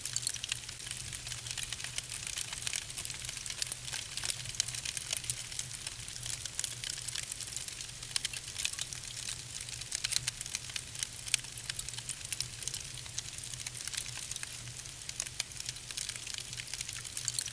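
Wood fire crackling in a fireplace: dense, irregular sharp pops and snaps from burning logs over a steady hiss.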